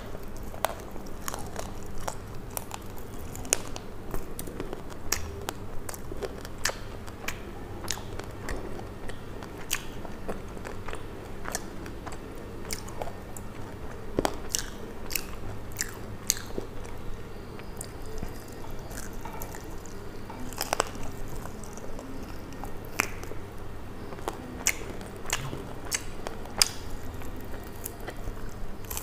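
Close-miked eating of fried chicken feet: biting and chewing, with irregular crisp crunches and clicks every second or so.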